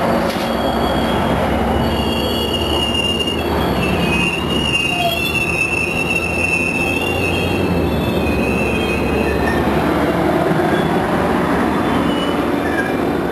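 Trinity Railway Express commuter train, an EMD F59PH diesel locomotive and its passenger cars, rolling past at close range with a steady rumble. A high, wavering wheel squeal runs through much of it.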